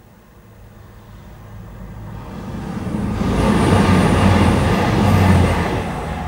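Passenger train passing over a level crossing at speed. The sound builds over about three seconds, peaks for about two seconds as the train crosses, and starts to fade near the end.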